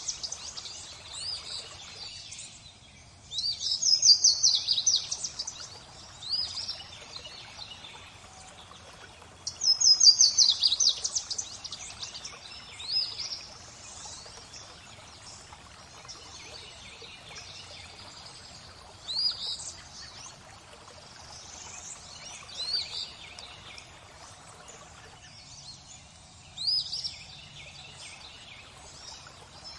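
Songbirds singing over steady flowing water: two loud fast trilled phrases, about three seconds in and about ten seconds in, with short rising chirps scattered throughout.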